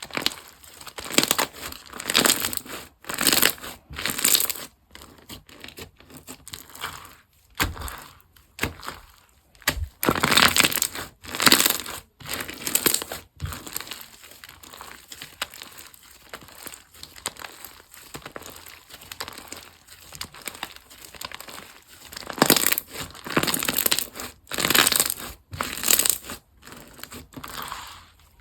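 Slime being squeezed, pressed and stretched by hand, giving crinkly, crackling squishes. It comes in loud spells with quieter handling between.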